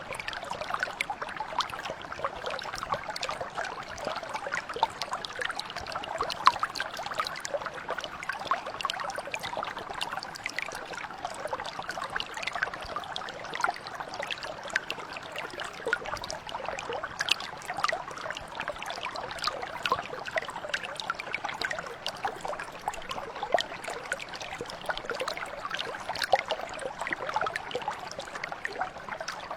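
Shallow mountain brook flowing steadily over stones, a continuous babble full of small splashes and trickles.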